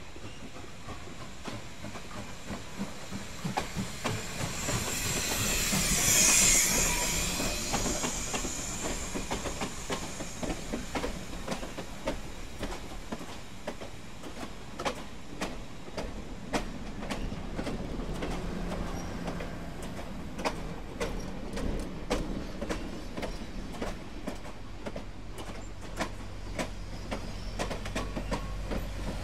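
Holiday-lit passenger train hauled by steam locomotive SPS 700 rolling past, its wheels clicking over the rail joints. A loud hiss swells and fades about six seconds in.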